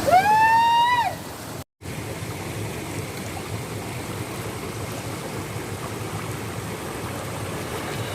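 Steady rush of water at a waterfall. In the first second a person gives one drawn-out call that rises and then falls away, and the sound cuts out briefly just after it.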